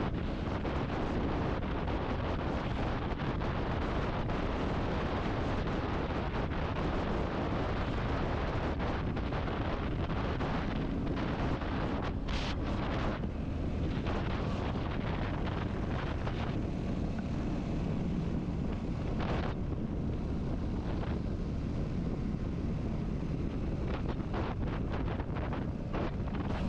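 Steady wind rushing over the microphone of a moving motorcycle. Under it is the steady running of the Royal Enfield Classic 350's single-cylinder engine, with road noise.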